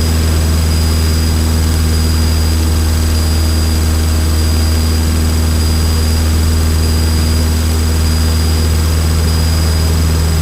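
Piston engine and propeller of a single-engine Cessna trainer running steadily in flight, heard as an even, loud drone from inside the cockpit. A faint steady high whine sits above it.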